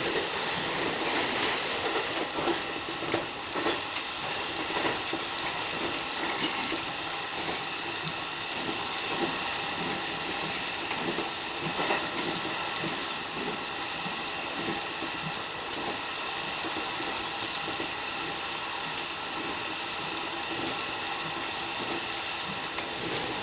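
Electric commuter train running at a steady speed, heard from inside the car: a constant rumble with a steady whine, and the wheels clicking irregularly over rail joints.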